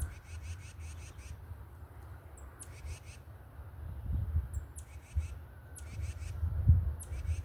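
Birds calling: short bursts of rapid high-pitched notes at about eight a second, with a few single sharp chips falling in pitch, over an irregular low rumble.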